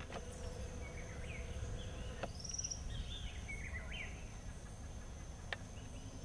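Wild birds giving several short chirping, warbling calls over a steady high-pitched insect drone, with a low background rumble.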